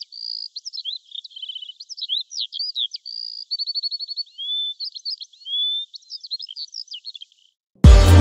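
A songbird singing a fast, varied, high-pitched song of chirps, trills and short whistles, without pause, stopping shortly before the end. Just before the end, loud electronic music with a heavy bass beat cuts in abruptly.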